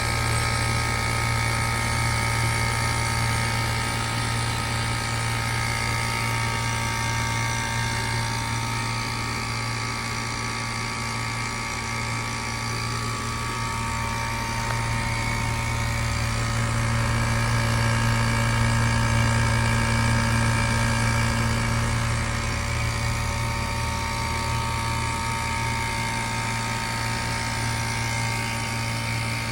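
A 1993 Mitsubishi Electric Kirigamine MUH-K223 air-conditioner outdoor unit running in cooling mode with its outer cover removed. Its compressor gives a steady low hum with several whining tones over the rush of the fan, getting a little louder around the middle.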